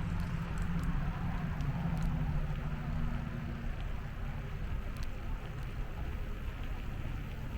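Wind rumbling on the microphone of a moving bicycle, with a passing vehicle's hum that fades out about halfway through.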